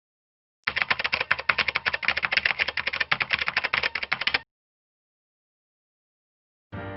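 Rapid computer keyboard typing clicks for nearly four seconds, stopping abruptly. Music with sustained notes starts near the end.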